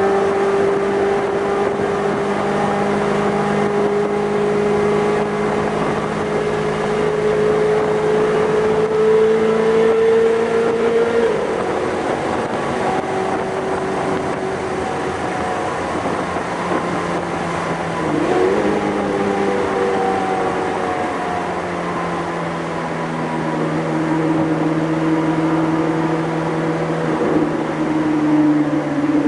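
Ferrari F430's 4.3-litre V8 through an M.S. Racing aftermarket exhaust, running at steady light load with the revs slowly climbing. The pitch drops about a third of the way in, as at a gear change. A little past halfway there is a quick rise in revs, and the revs fall away again near the end.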